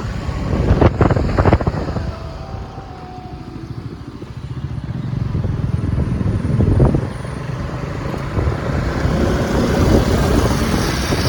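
Bajaj NS200 single-cylinder motorcycle running on the road while being ridden. It dips quieter a couple of seconds in, then builds back up toward the end.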